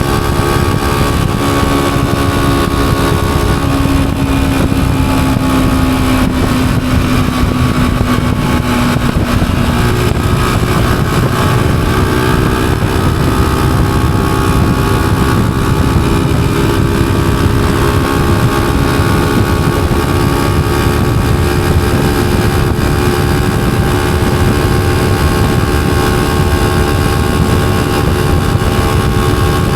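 Honda CG125's single-cylinder four-stroke engine running while the motorcycle is ridden, over a steady low rumble. The engine note sinks slowly for a few seconds, changes abruptly about ten seconds in, then holds steady.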